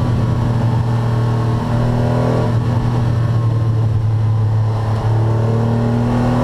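Air-cooled flat-six engine of a 1981 Porsche 911 SC running hard at speed, heard from inside the cabin, with two short dips in level about one and a half and five seconds in.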